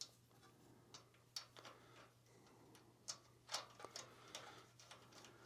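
Faint, scattered clicks and light taps of small metal carburetor parts being handled as the brass main jet is fitted over the emulsion tube, over a low steady hum.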